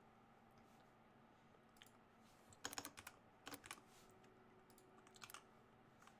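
Faint typing on a computer keyboard: two quick runs of keystrokes around the middle and a few more keystrokes near the end.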